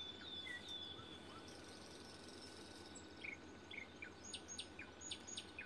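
Faint outdoor ambience: small birds giving short, scattered chirps over a steady low hiss, with a quick run of high ticks near the end.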